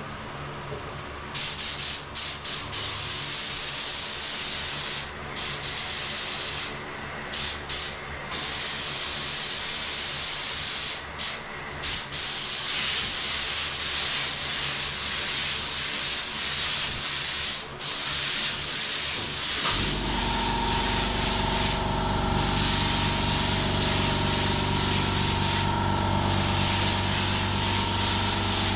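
Automotive paint spray gun spraying clear coat, a loud steady hiss of air and atomised lacquer broken by short pauses as the trigger is released between passes. About two-thirds of the way through, a steady low machine hum starts up beneath it.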